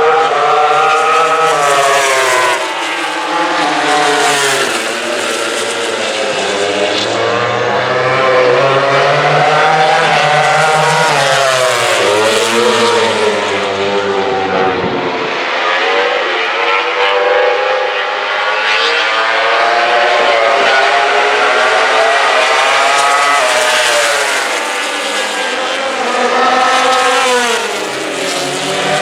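MotoGP racing motorcycles, 1000 cc four-cylinder four-strokes, passing one after another at full chat. Their engine notes overlap, each rising in pitch as it comes on and falling away as it goes by, with several pass-bys in turn.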